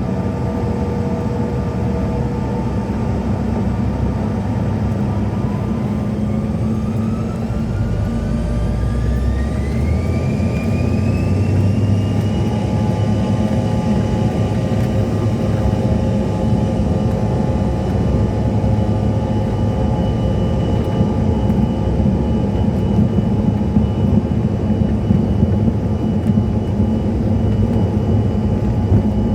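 Bombardier CRJ-700's twin GE CF34 jet engines heard from inside the cabin: a whine rises steadily for about six seconds, then holds at a high steady pitch over a loud, constant rumble, as the engines spool up to takeoff thrust.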